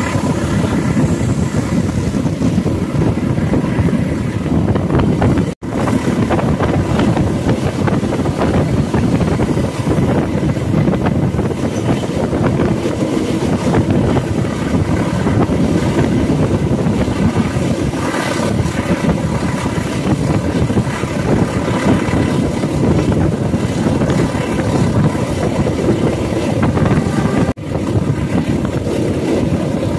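Blambangan Ekspres passenger train running at speed, a loud steady rumble of wheels and carriage with wind noise on the microphone. The sound drops out briefly twice.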